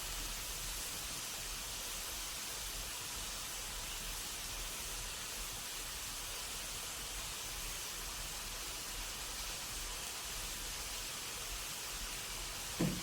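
A steady, even hiss, with a brief knock near the end.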